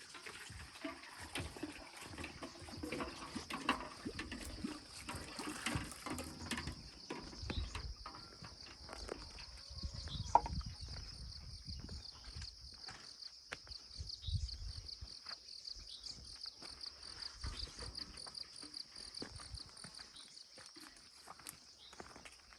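Insects droning steadily on one high, shrill note, pulsing rhythmically in the later part, with footsteps and scuffs on a path.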